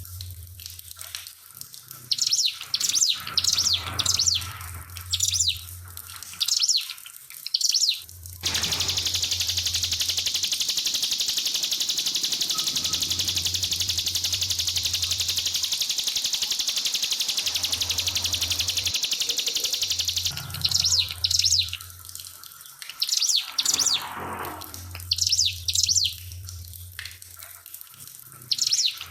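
Ciblek (prinia) singing short, high chirping phrases. About eight seconds in it breaks into a long, very fast, even trill that lasts about twelve seconds, the rapid 'nembak' song, then goes back to short chirps. Trickling water runs faintly underneath, along with a low hum that comes and goes.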